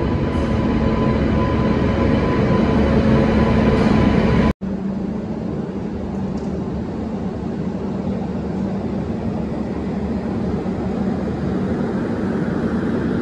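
Steady rumble and hum of a train at a railway platform, with a few steady tones over the noise. The sound breaks off abruptly about four and a half seconds in, then comes back a little quieter.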